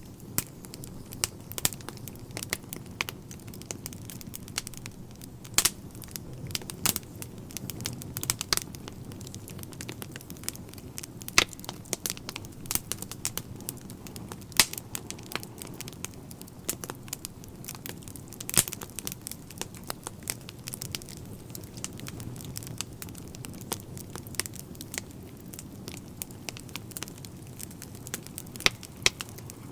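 Wood fire in a fireplace crackling, with irregular sharp pops and snaps, a few much louder than the rest, over a low steady rumble.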